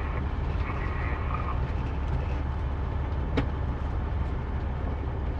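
Steady low drone of a semi truck's engine and road noise heard inside the cab, with one sharp click about three and a half seconds in.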